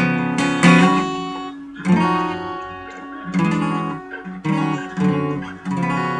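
Acoustic guitar strummed, a handful of chords struck about a second apart and each left to ring.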